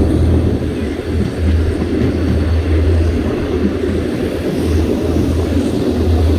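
Passenger train running along the line: a loud, steady low rumble that swells and eases every second or two.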